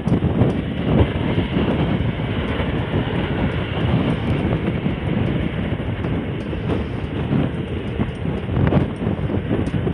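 Jet airliner engine noise, a steady rumble, with wind buffeting the microphone.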